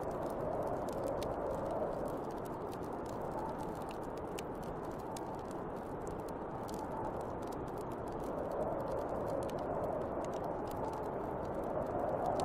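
Snowstorm wind blowing in slow swells, easing in the middle and rising again in the last few seconds, with a wood fire crackling in small sharp pops throughout.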